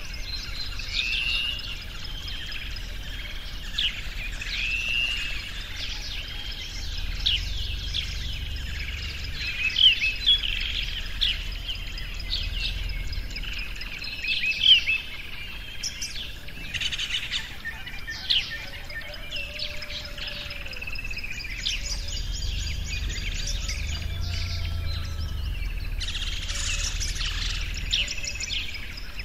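A chorus of several birds chirping and singing, with many short overlapping calls and a few sharper, louder ones. A faint low rumble runs underneath.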